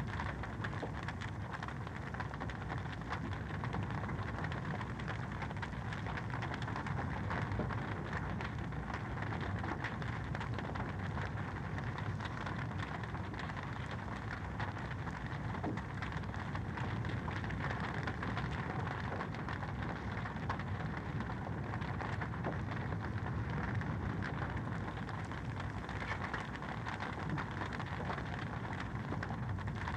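Wood fire in a fireplace crackling steadily, a dense run of small pops and snaps over a low, even rush.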